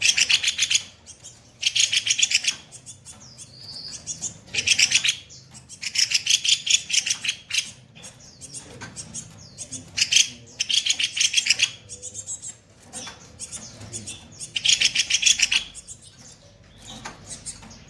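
A kopi-kopi songbird singing in repeated bursts of very rapid, harsh, high notes, each burst under a second long and coming every second or two: the coarse 'shot' phrases that bird keepers prize.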